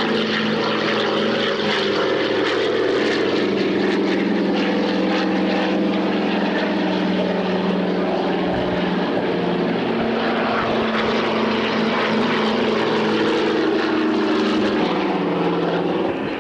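Piston engine and propeller of an aerobatic light aircraft running at display power, a steady drone whose pitch shifts a few times as it manoeuvres.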